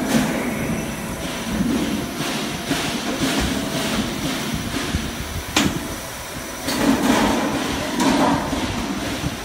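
HVAC duct auto line running: a steady mechanical rumble with a series of short knocks, and one sharp knock a little past halfway.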